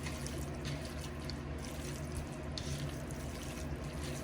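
Wet squishing and dripping of raw chicken pieces being mixed in a watery seasoning marinade, with a few sharp wet ticks over a steady low hum.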